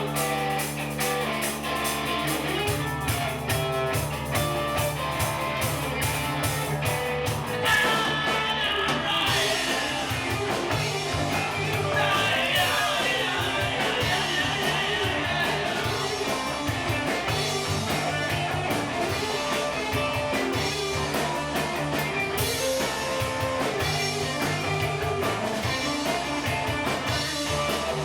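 Live rock band playing a driving rock-and-roll number on electric guitar and drum kit, with a steady beat that brightens with more cymbal about eight seconds in.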